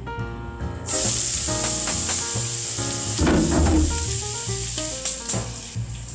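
Shaved burdock root strips frying in hot oil in a nonstick wok: a loud sizzle starts suddenly about a second in and carries on, with a brief louder rustle about three seconds in. Background music plays throughout.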